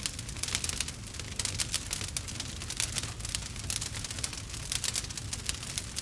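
Wood fire crackling in a fireplace: a dense run of irregular sharp pops and snaps over a steady low rumble of the flames.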